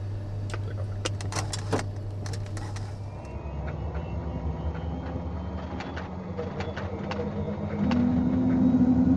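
Sounds in a Beechcraft Premier 1A jet cockpit: a quick series of switch-like clicks, then a faint, slowly rising whine over a steady hum. The hum steps up in pitch and gets louder near the end.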